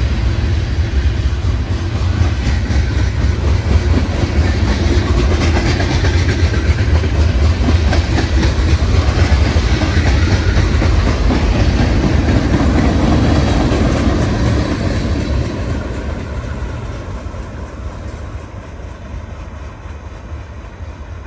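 A train rolling past on the rails, loud at first, then fading away over the last several seconds as it moves off.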